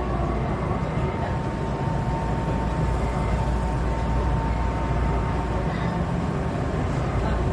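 Electric commuter train running along the track, heard from inside behind the cab: a steady rumble of wheels and motors, with a thin steady whine that sets in about a second in and fades out around six seconds.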